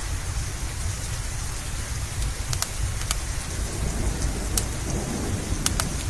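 Steady rain with a low rumble of thunder that swells over the last few seconds, and a few sharp crackles from a wood fire.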